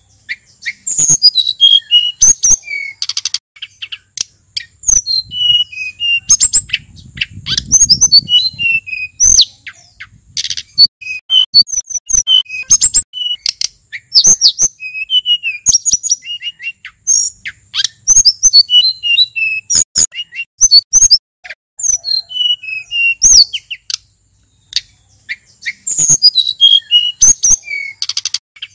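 Male sulingan gunung songbird singing a fast, varied song of high, sharply falling whistled notes and sharp chips, with hardly a pause. A low rumble sounds under the song for a few seconds near the middle.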